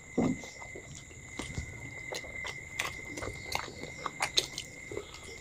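Close-up chewing and biting of food: many faint, irregular crunches and mouth clicks.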